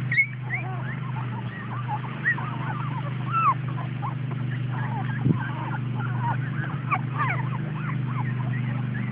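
A litter of young pit bull puppies whimpering and squeaking in many short, high, overlapping cries, over a steady low hum.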